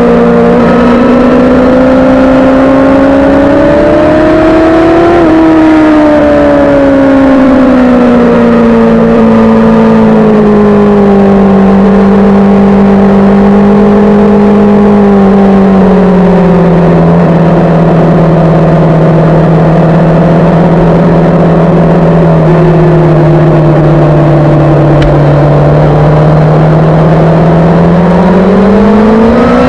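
Suzuki GSX-R sportbike's inline-four engine running loud under way. Its pitch climbs for the first few seconds, sinks slowly and holds low for about ten seconds, then rises again near the end.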